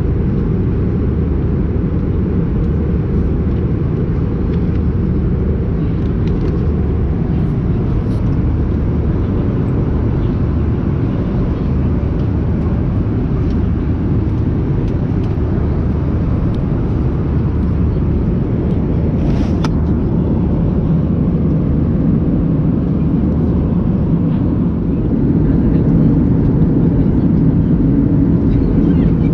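Steady low rumble of an Airbus A320-232's cabin in flight: engine and airflow noise heard from a rear window seat, with the aircraft's IAE V2500 engines running. It grows a little louder near the end.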